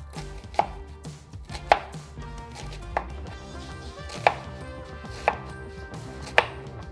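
Kitchen knife slicing an onion thinly, striking the cutting board six times at roughly one-second intervals.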